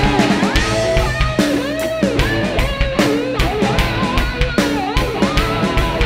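A live rock band playing an instrumental passage: electric guitar, bass and drum kit, with lap steel in the line-up. The guitar lines slide and bend in pitch over a steady drum beat.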